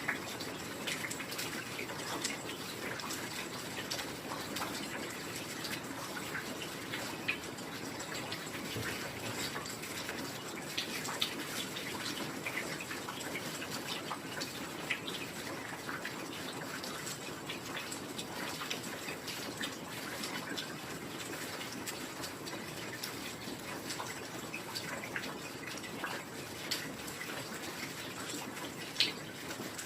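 Heavy rain falling steadily, an even hiss of rainfall with many scattered sharp drop hits throughout.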